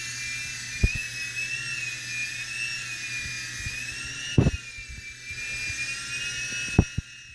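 Small indoor remote-control helicopter's electric motor and rotor whining steadily at a high pitch that wavers slightly as it flies. A few sharp knocks come through: about a second in, past four seconds, and near the end.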